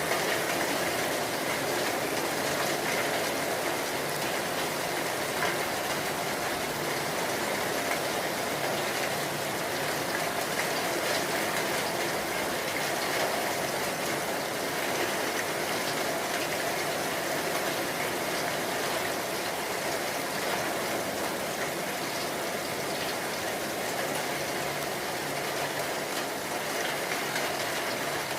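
Steady heavy rain falling, an even hiss with no breaks or thunderclaps.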